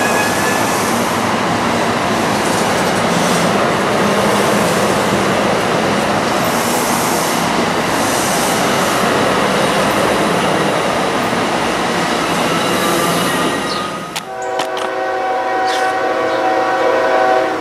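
MARC commuter train of bilevel coaches rolling past, a steady rushing rumble of wheels on rail. About fourteen seconds in the rumble falls away and a train horn sounds a steady multi-note chord.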